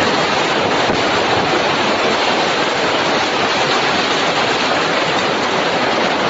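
A storm: a loud, steady rushing noise with no breaks.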